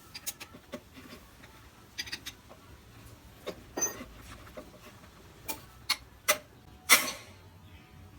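Irregular clicks and knocks from a drill and its chuck being handled and worked on, about ten in all, the loudest near the end.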